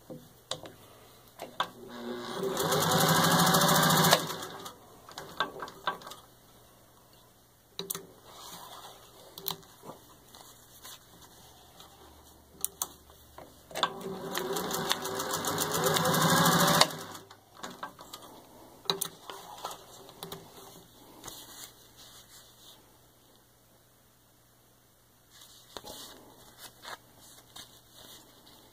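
1941 Singer 201-2 sewing machine, with its potted gear-driven motor, stitching through four layers of thin leather. It runs in two main bursts of about two and three seconds, each growing louder, with short handling clicks between them.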